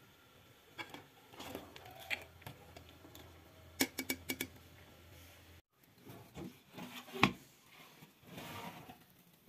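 Scattered clicks, taps and rubbing of things being handled in a kitchen, with a sharp knock about seven seconds in.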